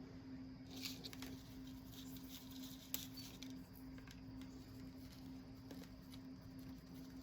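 Faint rustling and light taps of hands handling small craft materials, with one sharper click about three seconds in, over a steady low hum.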